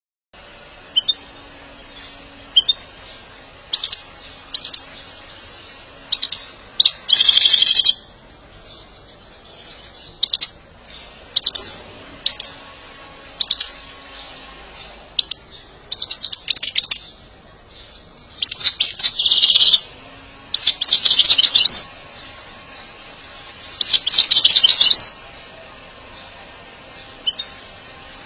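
European goldfinch calling in breeding-season excitement: short high chirps scattered throughout, broken by several loud bursts of rapid twittering song about a second long.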